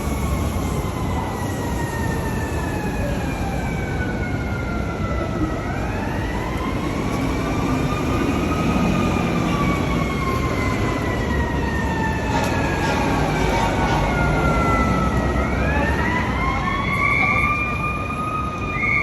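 Emergency vehicle siren wailing over city traffic noise, its pitch rising quickly twice and then falling slowly over several seconds.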